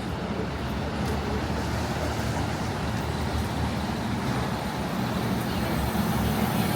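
City street traffic noise, steady, with a low engine hum from vehicles growing louder near the end.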